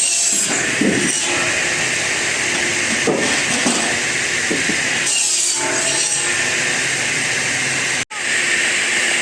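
Power saw cutting through wood in a sawmill workshop: a loud, steady cutting noise, with the sound cutting out for an instant about eight seconds in.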